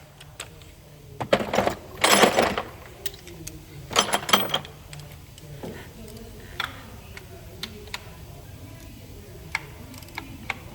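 Metal tools and parts clinking and clattering. There are a few loud clatters in the first half, then scattered light clicks.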